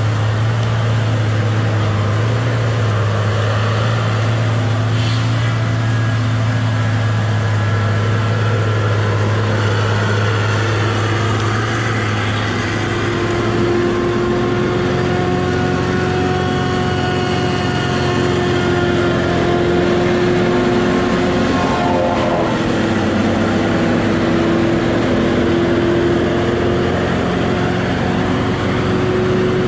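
Rubber-tired Tigercat feller buncher's diesel engine running steadily while the machine works. About halfway through the engine note shifts and a higher whine comes in.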